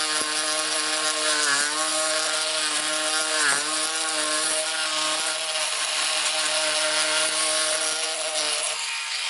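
Oscillating multi-tool fitted with a carbide jigsaw blade, running and cutting: a steady motor whine over a dense rasping. The pitch dips briefly twice under load.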